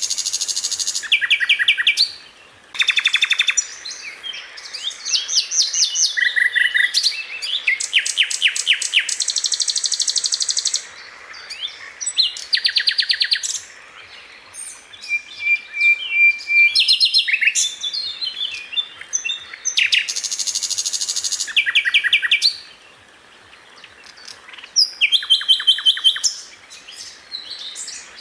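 Sikatan londo (a flycatcher) singing in bursts of very fast, tightly spaced high-pitched notes, each rapid-fire volley lasting a second or two, with short pauses between them. One longer held note comes about midway.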